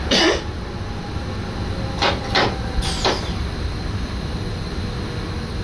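SGM Sprinter electric multiple unit running, heard from the driver's cab as a steady low rumble. Four short hissing whooshes fall in pitch: one at the start and three between about two and three seconds in.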